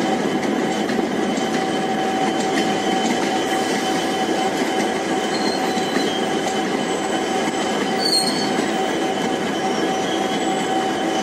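Passenger train coaches rolling past on the rails: a steady rumble of wheels on track with a thin, steady wheel squeal over it.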